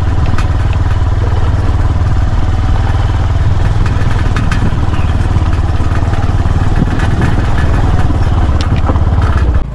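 A vehicle on the move: a loud, steady low rumble with scattered rattles and clicks, cutting off abruptly near the end.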